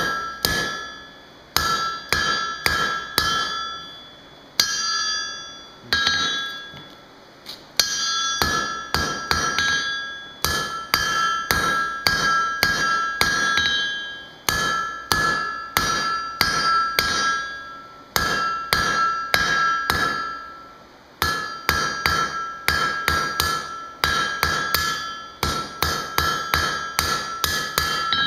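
Hammer blows on a 3/8-inch steel bar on the anvil, in quick runs of strikes with brief pauses between runs. Each blow leaves the anvil ringing with a clear high tone.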